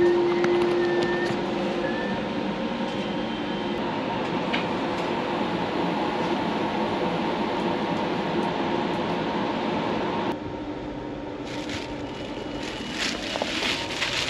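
Steady running noise inside a sleeper carriage of a Thai overnight train: a dense rumble and rattle with faint steady tones, which drops and changes character about ten seconds in. In the last few seconds a crinkling rustle joins it.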